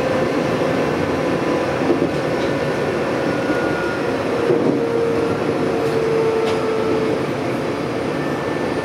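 Semboku Rapid Railway 3000-series electric train running along the track, heard from inside the front of the train: a steady running rumble of wheels on rail. A humming tone comes up for a couple of seconds in the middle.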